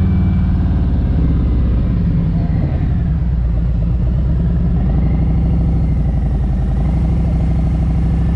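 A Harley-Davidson Milwaukee-8 107 V-twin running steadily under way through an aftermarket Tab Performance exhaust, its low, even exhaust note holding at cruising speed.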